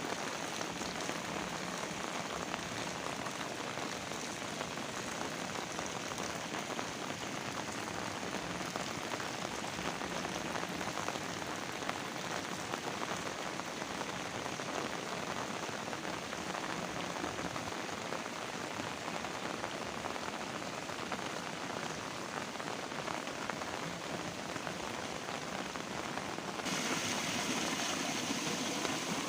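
Heavy rain falling steadily, a dense even hiss of drops on surfaces. Near the end it abruptly becomes louder and brighter.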